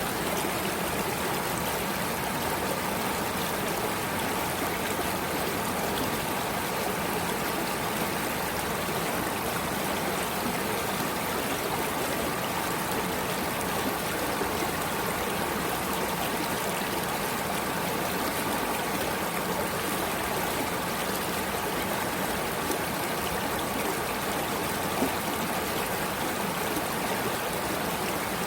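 Flowing stream water running steadily, a continuous even rush with a trickling, babbling texture.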